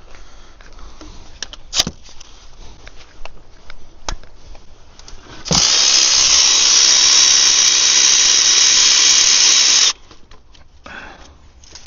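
A cordless power tool with an 18 mm socket runs steadily for about four seconds, starting about halfway in, spinning out a top gearbox bolt, then stops abruptly. Light clicks and knocks come before it as the socket is fitted.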